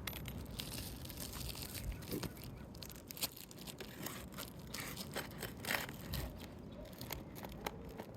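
Asphalt roof shingles being pried loose with a roof snake: scattered short scrapes and crackles of the stiff shingle material and tool, with no steady tone.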